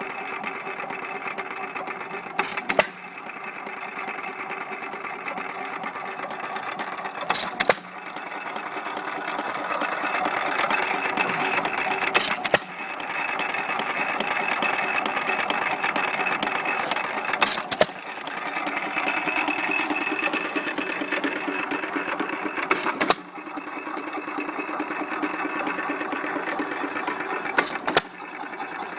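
1927 Arco hit-and-miss engine (built by Hercules), a single-cylinder engine, running at about 300 rpm with a steady fast clatter. It fires with a sharp bang about every five seconds, six times, and coasts between firings.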